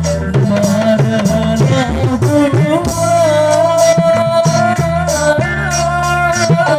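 Kecimol ensemble music: a voice holding long, wavering notes over drums, bass and a steady beat.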